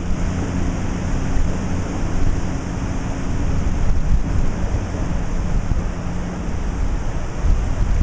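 Floodwater of a creek swollen by a flash flood rushing past in a loud, steady, even rush, heaviest in the low end.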